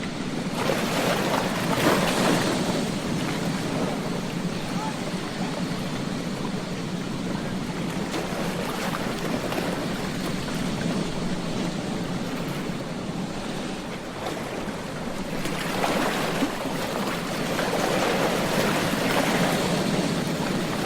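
Ocean waves washing onto a beach in a steady rush of surf. One wave surges louder about a second in, and another builds from about sixteen seconds on.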